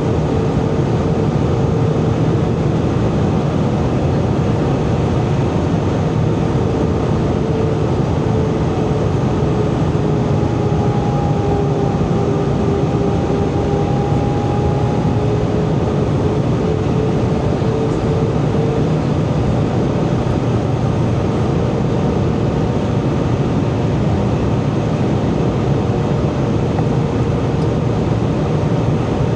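Airbus A320 cabin noise in flight: the steady rush of engines and airflow, with a faint engine hum whose pitch sags slightly in the middle and then comes back up.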